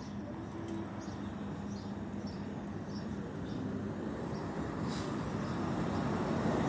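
Road traffic noise building steadily as a vehicle approaches, with a low hum that fades out a few seconds in and a scatter of faint, short, high chirps in the first half.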